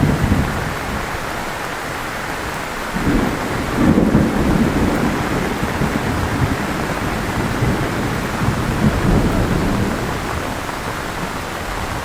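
Heavy rain pouring steadily, with low rumbles of thunder swelling about three seconds in and again a few seconds later.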